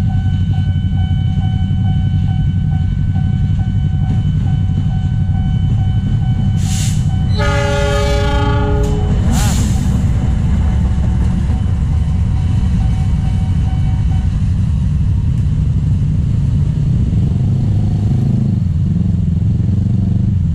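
Diesel locomotive passing over a level crossing, its engine and wheels running heavily, with one horn blast of about a second and a half some seven seconds in. The crossing's warning alarm sounds a repeated steady tone until about fourteen seconds in. Near the end, motorcycle engines rev as traffic moves off across the tracks.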